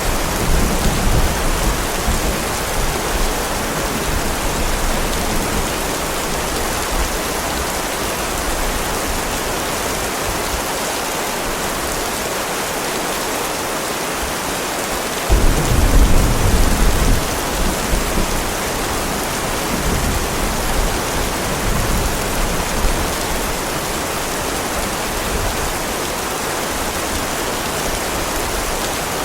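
Heavy rain falling steadily, with deep rolls of thunder rumbling in just after the start and again, louder, about halfway through.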